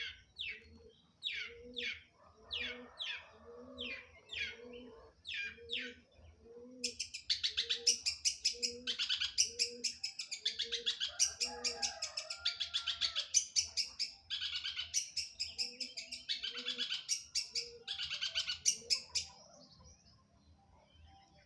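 Long-tailed shrike (cendet) singing: first a string of short, sharply falling whistles about one every half second, then about seven seconds in a fast, loud, dense chattering song that runs on until shortly before the end.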